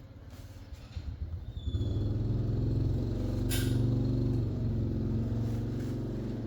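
An engine running, swelling much louder about a second and a half in and holding steady, with a single sharp click near the middle.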